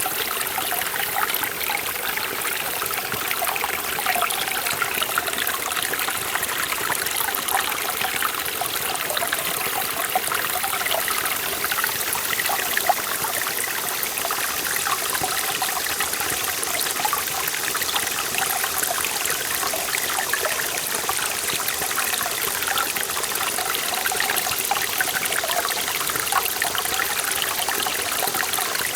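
A forest valley stream running over rocks: a steady rush of flowing water full of small splashes and trickles.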